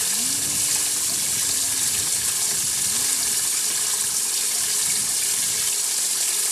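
Bass boat live-well pump running, with water pouring steadily into the live well.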